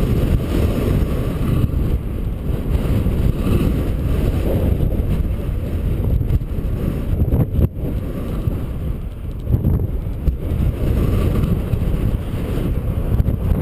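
Wind buffeting an action camera's microphone during a bicycle ride: a loud, fluctuating low rush, with a single knock about seven and a half seconds in.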